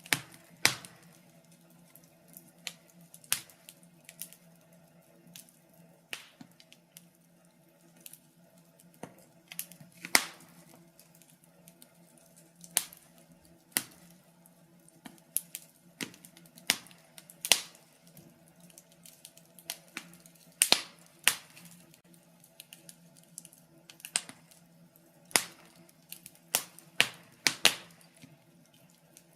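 Wood fire crackling in a fireplace: sharp irregular pops and snaps, a few seconds apart at first and coming more often near the end, over a faint steady low hum.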